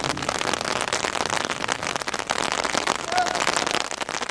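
Rain pattering steadily, a dense crackle of drops.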